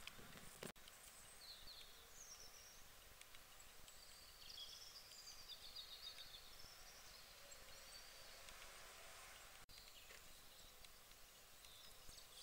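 Near silence with faint birdsong: small birds giving short high chirps and warbling phrases, mostly in the first two-thirds.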